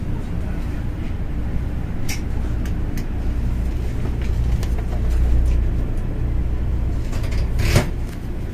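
Steady low rumble of a running Hello Kitty Shinkansen, a JR West 500 Series, heard inside the passenger car. A few light clicks, and one short sharp noise near the end.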